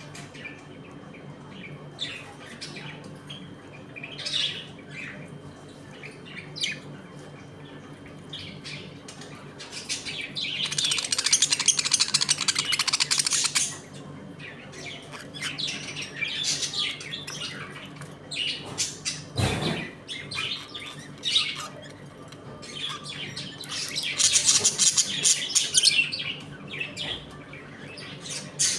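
A flock of budgerigars chirping and chattering, rising twice into loud stretches of dense, overlapping chatter. There is a single sharp knock about two-thirds of the way through.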